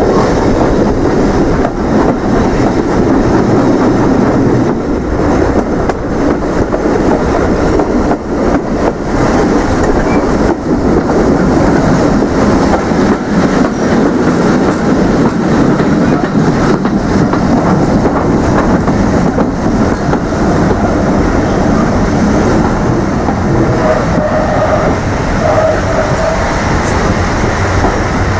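Heritage railway train running along the track, a steady rumble with wheels clattering over the rails.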